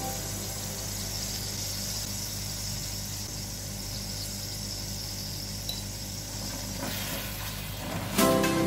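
Prawns sizzling in oil in a ceramic-coated frying pan: a steady high hiss over a low hum. Music comes in just before the end.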